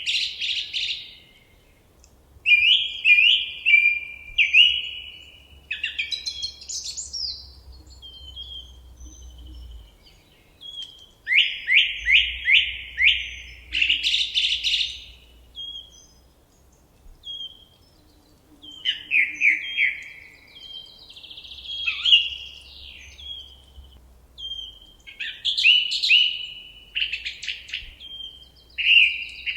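Forest songbirds singing: short phrases of quick, falling notes and trills, repeated every few seconds with brief pauses between.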